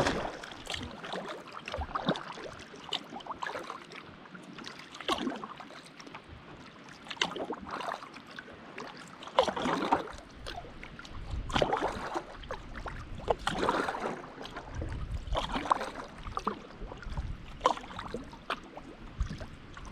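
Kayak paddle strokes dipping and splashing in lake water, with water dripping off the blades. The splashes come about once every two seconds.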